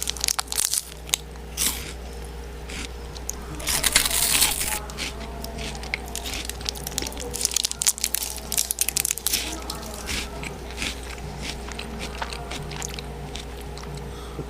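A person eating close to the microphone: irregular crunchy bites and chewing, with a louder noisy burst about four seconds in, over a steady low hum.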